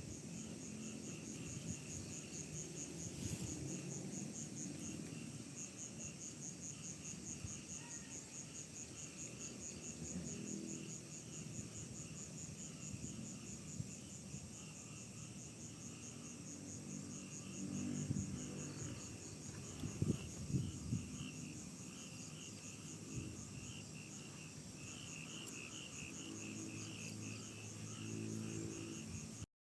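Night chorus of crickets: a steady, rapid pulsing trill with a second, lower chirping that comes and goes, over soft low rustling. The sound cuts off suddenly just before the end.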